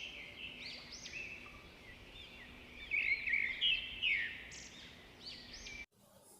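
Recorded birdsong played through a smartphone's loudspeaker: many quick overlapping chirps and trills with little bass, cutting off suddenly near the end.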